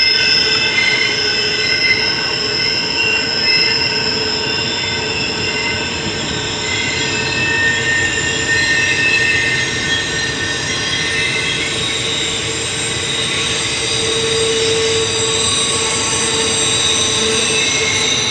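Intermodal freight train of double-stack container well cars and trailers rolling steadily past close by: a continuous rumble of steel wheels on rail with several high-pitched wheel squeals held over it.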